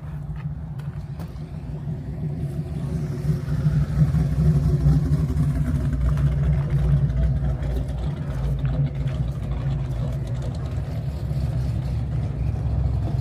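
A car engine running close by, a low steady rumble that grows louder about three seconds in and then holds.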